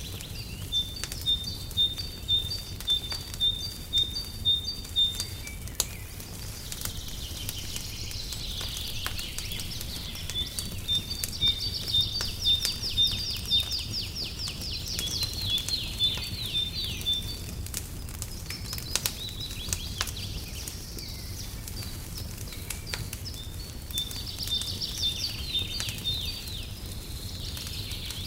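Songbirds singing in series of short, high, repeated chirps, about two a second at first, with faster trills later on. Under them a fireplace crackles with scattered small pops over a soft low rumble.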